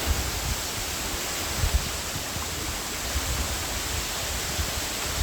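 Waterfall rushing steadily, an even, unbroken wash of falling water, with a few brief low thumps on the microphone.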